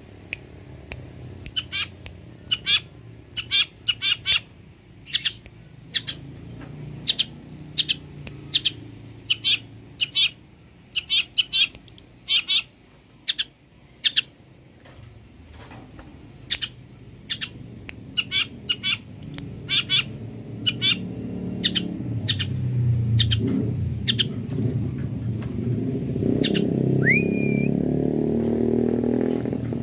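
Long-tailed shrike (cendet) giving a rapid series of short, sharp, harsh calls, one or two a second, which fade out after about 25 seconds and end with a short rising whistle. A low engine-like rumble builds up over the second half and becomes the steady loudest sound near the end.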